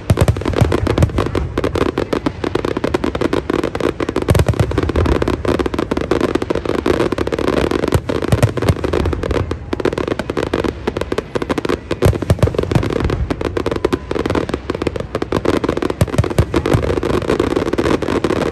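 Fireworks display: a dense, continuous barrage of shell bursts and crackling, with heavy booms now and then.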